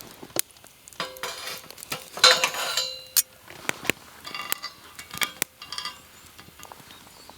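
Utensils clinking and scraping against cookware and dishes: a run of sharp clicks and scrapes, some with a brief metallic ring, the longest scrape a little over two seconds in.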